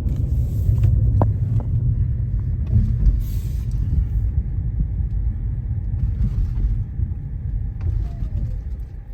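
Steady low road and engine rumble inside a moving car's cabin, growing quieter near the end.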